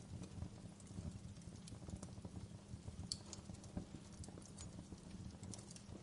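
Wood fire crackling in a fireplace: irregular pops and snaps over a steady low rumble of the burning fire, with a sharper pop about three seconds in.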